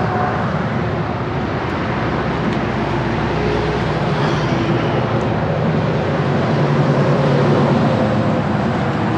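Car on the move, with steady road and engine noise heard from inside the cabin.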